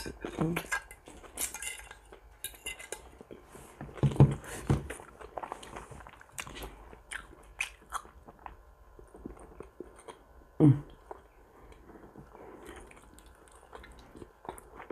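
Close-miked chewing and biting of pork, with light clicks and scrapes of a metal fork on a ceramic plate. Two louder sounds stand out, about four seconds in and, loudest, about ten and a half seconds in.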